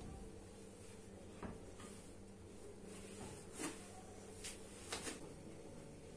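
A few light clicks and knocks from handling things in a kitchen while cleaning, the sharpest pair close together near the end, over a faint steady hum.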